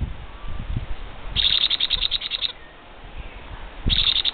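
Hand-reared parrot chick giving its begging call while being fed: two bouts of a fast, rhythmic rasping chatter, each about a second long, the second starting near the end.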